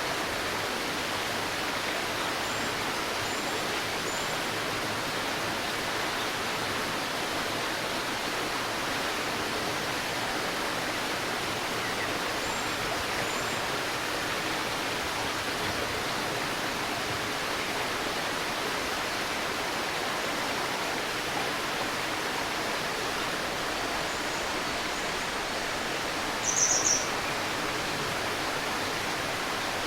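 A river's murmuring flow, steady throughout, with a few faint high bird chirps and one short, louder burst of chirps near the end.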